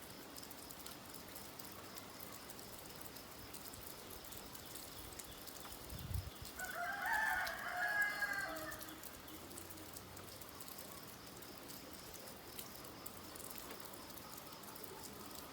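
Steady rain falling, with a rooster crowing once about halfway through, a single call of about two and a half seconds. A brief dull thump comes just before the crow.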